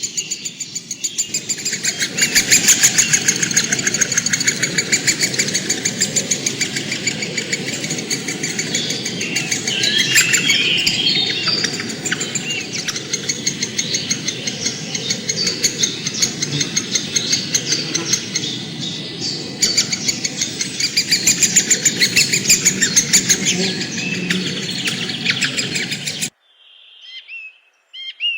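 Dense chorus of fast, rapidly repeated high chirping, with birds calling over it. It cuts off abruptly near the end, leaving a few clear whistled bird notes.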